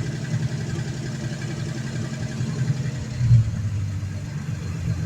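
Classic Dodge Lancer's engine idling with a steady low pulse, and a brief louder swell about three seconds in.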